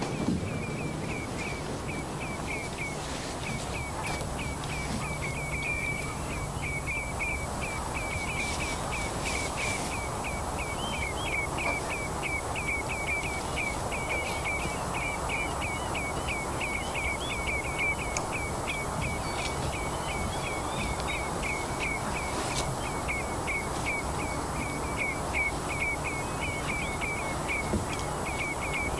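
A bird calling in quick short chirps, about three a second, kept up without a break, over a steady low hiss of wind and open-air noise.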